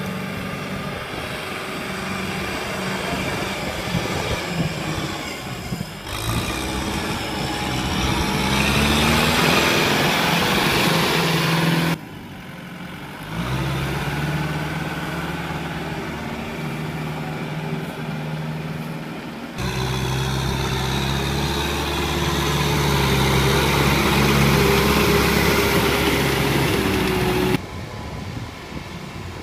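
Kubota M6040SU tractor's diesel engine running under heavy load in deep mud, its pitch climbing as it is revved. The sound changes abruptly several times where the clips are cut together.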